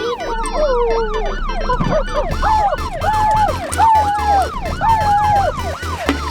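Emergency siren in a fast yelp, sweeping up and down about three times a second, with a slower wavering tone over it. A deep pulsing beat comes in about two seconds in.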